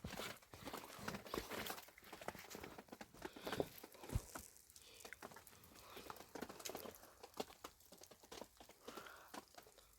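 Faint, irregular crunching and rustling, with scattered short clicks and scuffs.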